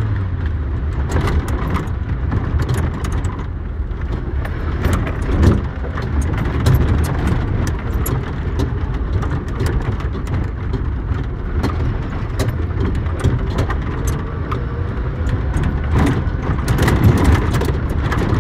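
Suzuki Samurai heard from on board, its engine running steadily under way, with frequent sharp knocks and rattles from the body jolting over rough dirt ground.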